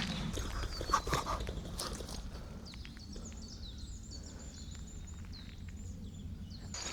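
Footsteps on the forest path with a short louder sound about a second in, then a songbird singing high, quick warbling phrases that cut off suddenly near the end.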